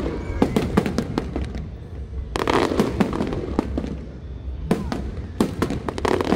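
A fireworks display with aerial shells bursting in quick, irregular succession: many sharp bangs over crackling, which thickens about two and a half seconds in and again near the end.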